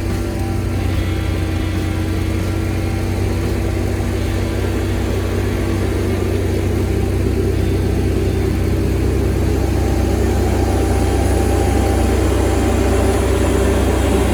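Backhoe's diesel engine running steadily, a deep steady drone that builds slightly in level toward the end.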